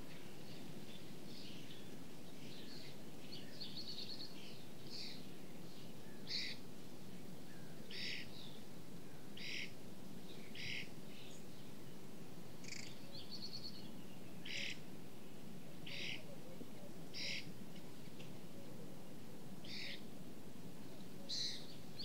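Birds calling: a short, high call repeated every second or two, with a few quick rattling trills in between, over a steady low background hum.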